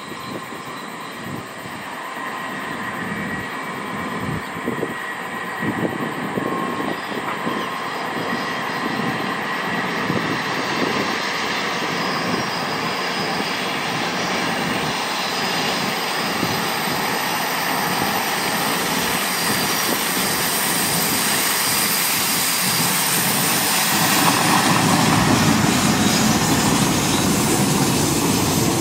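KiwiRail freight train approaching and passing: the locomotives' engine noise grows steadily louder as the train nears, and is loudest and fullest as the locomotives pass close by near the end.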